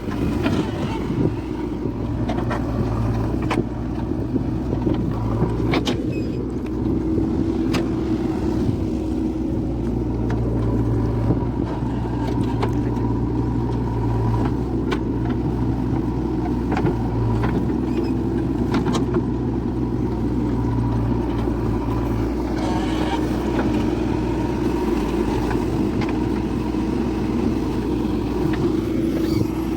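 Eicher tractor's diesel engine running steadily, with a few sharp clanks scattered through.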